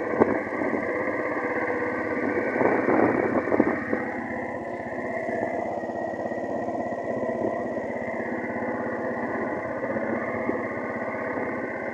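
Small petrol long-tail boat engine running steadily at idle, not revved.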